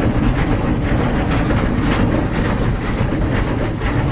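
Heisler geared steam locomotive under way, heard from inside its cab: a steady, loud running noise with rapid, continuous clattering from the running gear and rails.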